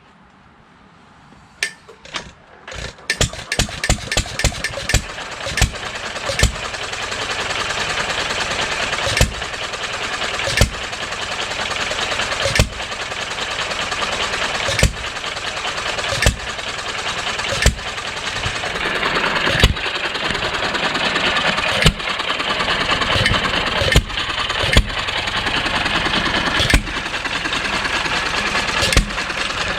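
John Deere 1½ hp Model E hit-and-miss stationary engine starting up. A quick run of sharp firing bangs about two seconds in as it comes up to speed, then it settles into hit-and-miss running: a single loud bang every second or two over a steady clatter while it coasts.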